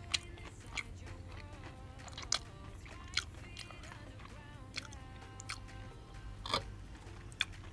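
Chewing of crispy battered fried chicken close to the microphone: scattered sharp crunches at irregular intervals, the loudest near the end, over soft background music.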